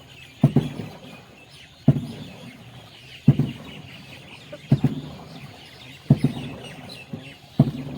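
Regular knocks about every second and a half, an oar knocking against the wooden boat with each rowing stroke. Many small birds chirp throughout.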